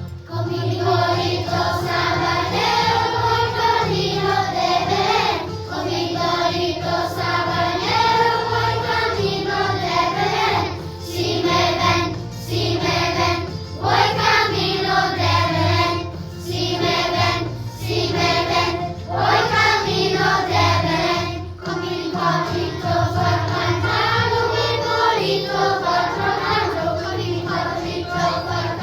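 A school choir singing, with many voices together in a continuous sung phrase.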